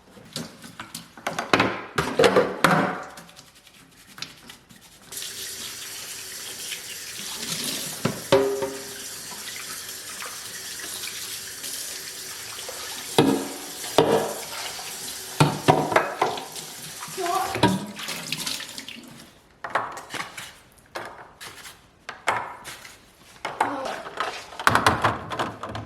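A tap running into a sink, starting about five seconds in and stopping a few seconds before the end. Knocks and clatter of things being handled come before, during and after the water.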